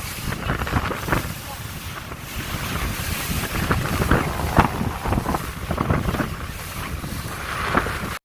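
Wind buffeting the microphone on a moving boat at sea, with water rushing and splashing along the boat in irregular gusts.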